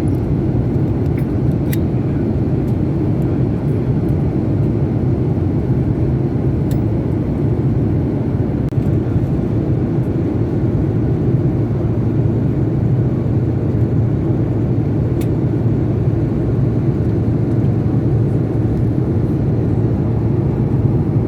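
Steady low drone of an airplane in flight, engine and airflow noise heard from inside the cabin, holding an even level throughout, with a few faint clicks.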